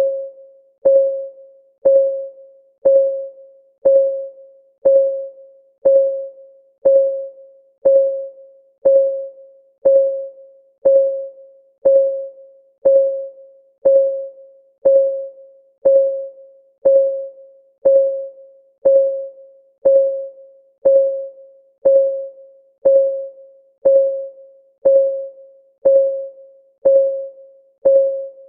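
Countdown timer's clock ticking sound: a short, pitched tick once a second, each dying away quickly, perfectly regular.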